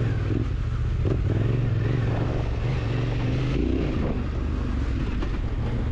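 Big enduro motorcycle engine running at fairly low revs, the throttle eased on and off a little, with a steady rush of wind and dirt noise.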